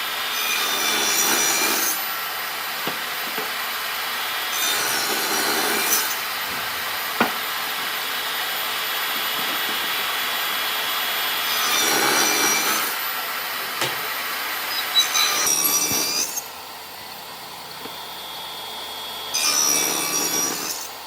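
Wood being sawn: a steady working noise with louder passes of a second or two, five times.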